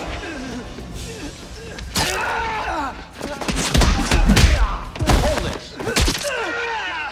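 Fight sound effects: several punch and kick impacts thudding in quick succession, with grunts and groans between them, over background music.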